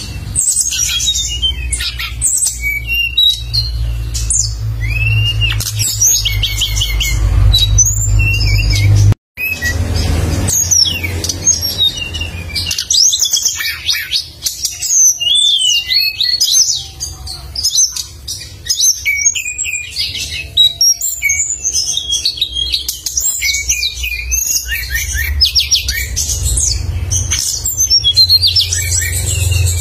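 Songbird song: a dense, continuous run of rapid high-pitched chirps, trills and sharp whistled notes, over a steady low hum. The sound cuts out for an instant about nine seconds in.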